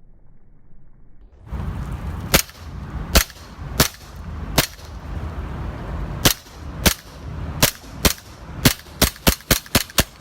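Glock 19 replica BB pistol firing about fourteen sharp shots, spaced out at first and coming in a quick string near the end, over steady background noise that starts about a second and a half in.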